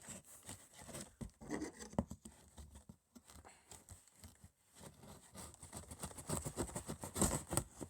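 A knife cutting open a cardboard box, with the cardboard being scraped and torn: a run of irregular scrapes, rips and small knocks, busiest near the end.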